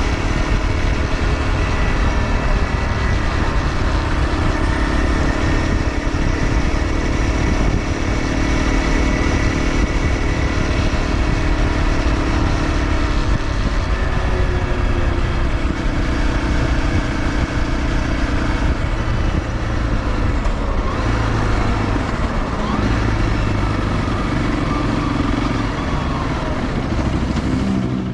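Honda CRF250L's single-cylinder engine running through a DELTA Barrel 4S slip-on silencer on an SP Tadao Power Box header pipe. The exhaust note is loud and steady, its pitch shifting up and down several times with the throttle.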